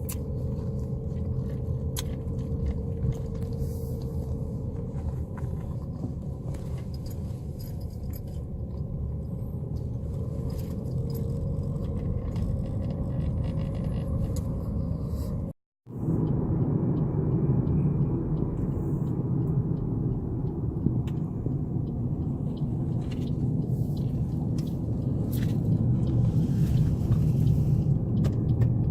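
Car engine and tyre noise heard from inside a moving car: a steady low rumble, broken by a brief gap about halfway, after which it is louder.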